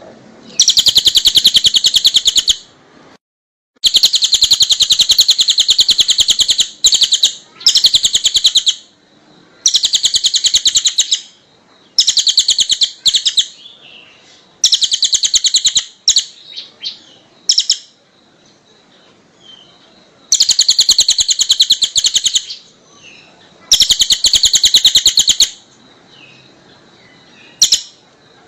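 A small songbird singing very rapid, loud, high trills in repeated bursts of one to three seconds, about eight of them with short pauses between. It is a masteran recording, a tutor song played to teach caged songbirds.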